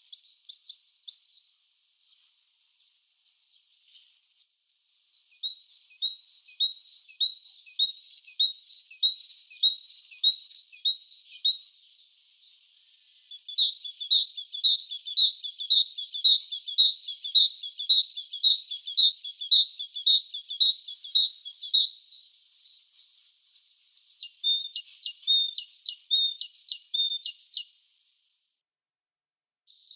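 A small songbird singing, repeating a short high two-note phrase in fast even trains of several seconds each, with short pauses between the trains; the repeats are quicker in the middle stretch.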